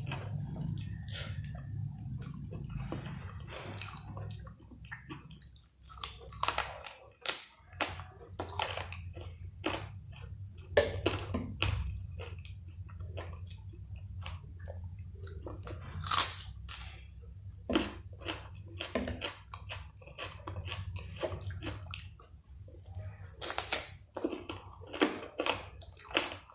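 Close-miked chewing and biting of tandoori chicken and chicken fried rice, with irregular short crunchy clicks of mouth and food, over a steady low hum.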